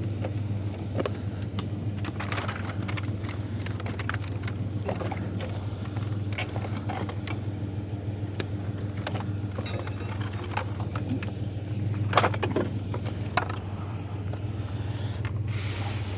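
A truck engine idling steadily, with scattered clicks, rattles and knocks of junk being handled; one louder knock comes about twelve seconds in.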